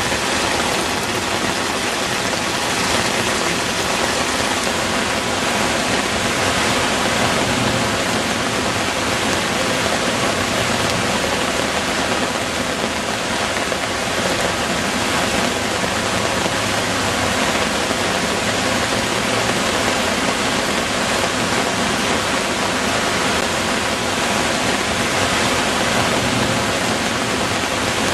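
Heavy rain pouring down, a dense, steady hiss of water.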